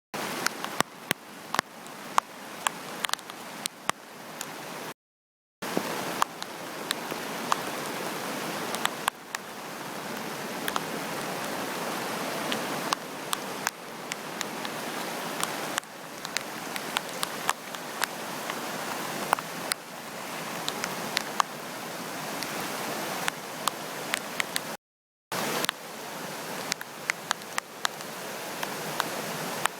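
A rain-swollen river in typhoon flood, rushing with a steady roar of water, with frequent sharp ticks over it. The sound cuts out briefly twice.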